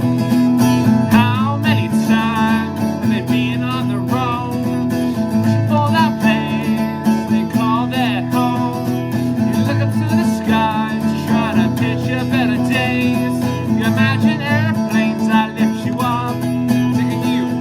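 Acoustic guitar music: a steady low accompaniment with a wavering melody line above it.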